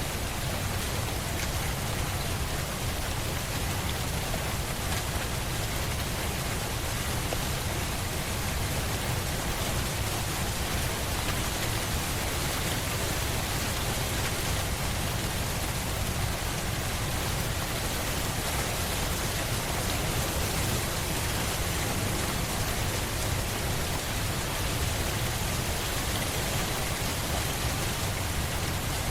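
Steady rain falling on a surface, an even hiss of many drops without a break.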